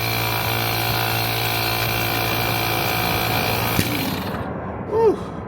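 Air compressor running with a steady hum and hiss, stopping after a click about four seconds in. A short squeak follows about a second later.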